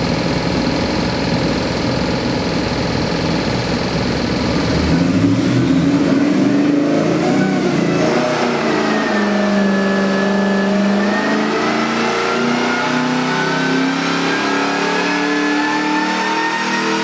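Whipple-supercharged LS 416 cubic-inch V8 engine running at a rough idle for about five seconds, then revving up. After a brief steady hold, the revs climb steadily in pitch.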